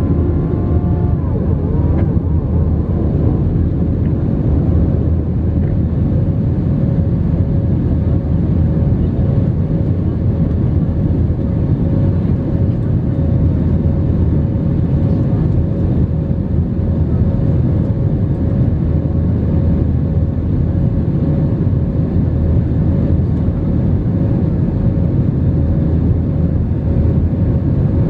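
Steady jet airliner cabin noise: a loud, even rumble of engines and airflow with one steady hum running through it.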